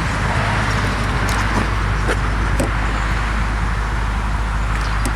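Audi S4's 4.2-litre V8 idling steadily: an even low rumble through its catless aftermarket exhaust, with a few faint clicks.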